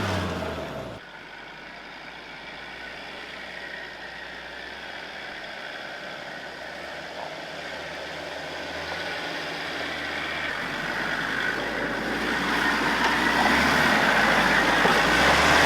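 Off-road 4x4 engine running at low revs. The sound drops suddenly about a second in, then grows slowly louder.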